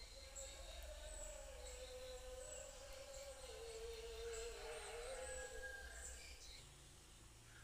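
Faint outdoor ambience: small birds chirping in short high notes over a steady, wavering distant drone.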